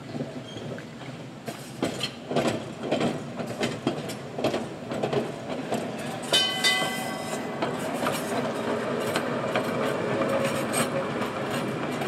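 Electric trolley car running on its track, wheels clacking irregularly over rail joints, with a short high-pitched tone about six seconds in.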